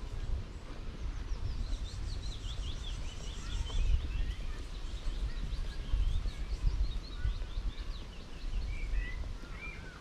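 A songbird sings a fast run of short, high, repeated notes from about a second and a half in until about eight seconds, then gives a few separate chirps near the end. Underneath, a low, irregular rumble is the loudest sound.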